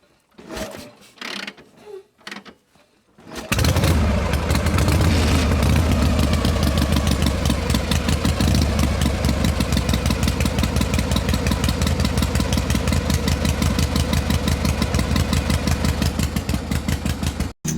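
A few faint knocks, then a small engine starts about three and a half seconds in and runs steadily with an even, rapid chugging beat, cutting off just before the end.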